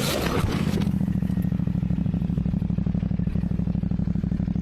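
Motorcycle engine running steadily at an even pitch with a fast, regular pulsing, after a rush of noise in the first second.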